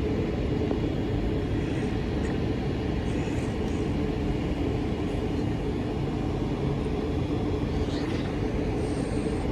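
Class 450 Desiro electric multiple unit standing at the platform, its onboard equipment giving a steady hum and rumble with a couple of low steady tones.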